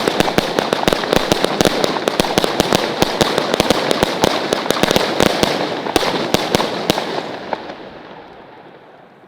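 New Year's Eve fireworks: a dense, continuous barrage of bangs and crackling, many reports a second, thinning out after about six seconds and fading away near the end.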